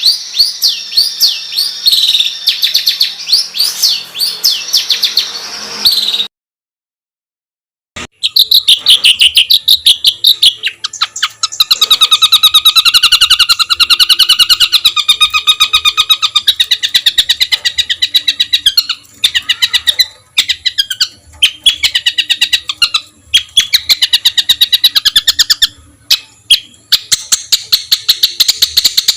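Songbird song in the harsh, rapid 'tembakan kasar' style used as a training recording for competition birds. A first phrase of quick gliding whistles breaks off about six seconds in. After nearly two seconds of silence comes a long run of fast, rattling repeated-note trills.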